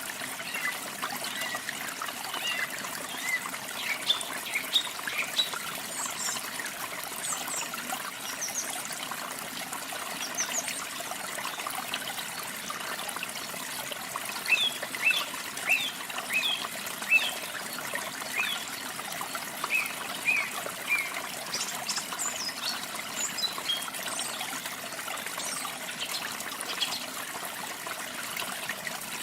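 Steady trickling and splashing of a small waterfall, with several songbirds chirping and trilling over it in short, high phrases, busiest in the middle and latter part.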